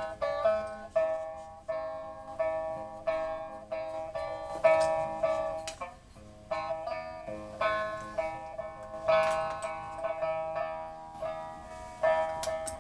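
Instrumental music on a plucked string instrument: a slow melody of picked notes, each struck sharply and ringing away, over a held tone.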